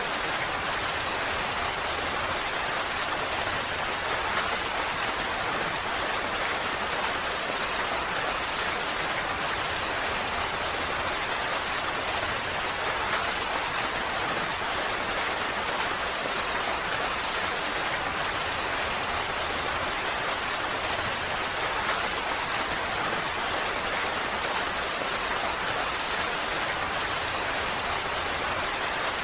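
Steady rain falling, an even, unchanging hiss with a few faint drop ticks.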